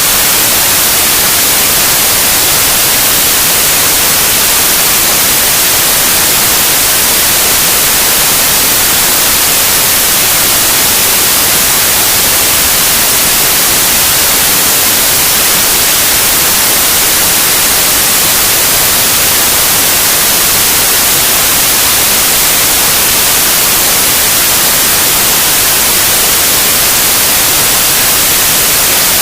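Loud, steady white noise: an even hiss with no change or events, strongest in the highs.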